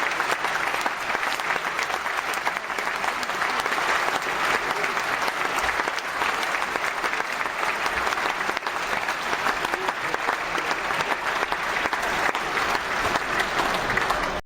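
Crowd applauding, a steady dense clapping that stops abruptly at the end.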